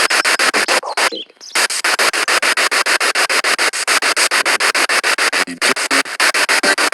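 Spirit box radio sweeping through stations, a fast choppy stutter of static at about nine bursts a second, the sound of its scan hopping from frequency to frequency. It breaks off briefly about a second in.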